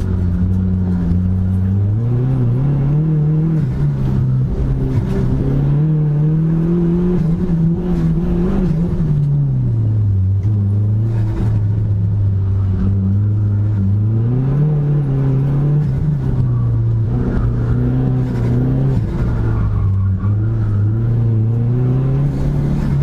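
Dodge Neon SRT-4's turbocharged 2.4-litre four-cylinder engine under hard driving. The engine note climbs, holds high, then drops several times as it accelerates and lifts off.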